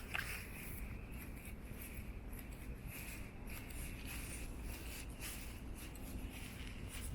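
Quiet rainy-street ambience: a low steady hum with light patter and scattered faint ticks, as of rain and steps on wet pavement.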